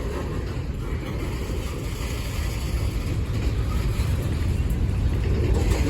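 Manifest freight train rolling past: a steady low rumble of the cars on the rails, growing a little louder toward the end.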